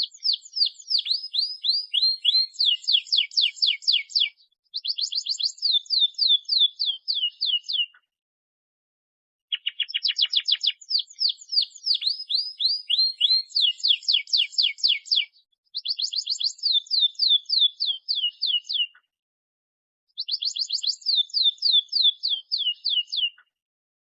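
Domestic canary singing in the busy 'gacor' style: fast trills of falling high notes, about six a second, in phrases of several seconds broken by short pauses of about a second.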